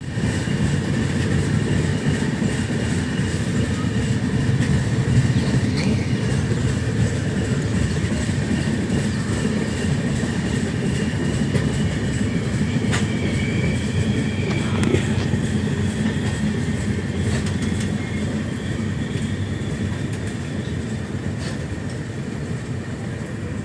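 Passenger train running at speed, heard from inside a carriage: a steady rumble of wheels on the rails with a faint high whine over it and a few sharp clicks. It grows a little quieter toward the end.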